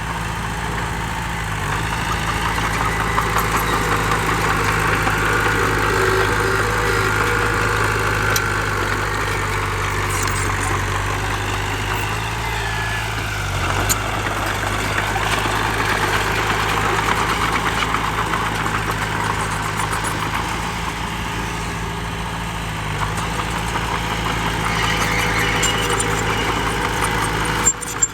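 Diesel engine of heavy earthmoving machinery running steadily, a low engine hum under a busy mechanical rattle, with a brief dip about halfway through.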